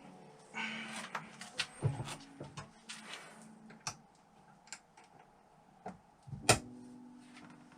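Irregular clicks and knocks of tools and metal engine parts being handled on a workbench, the loudest a single sharp knock about six and a half seconds in, over faint background music.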